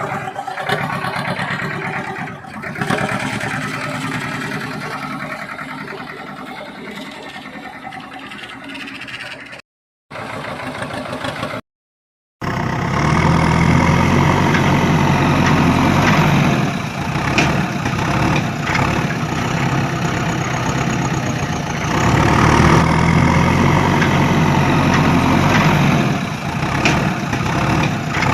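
A vehicle engine running steadily, with the sound cut out twice for a moment about ten and twelve seconds in; after the second cut it is louder and swells and eases every few seconds, like an engine working under load.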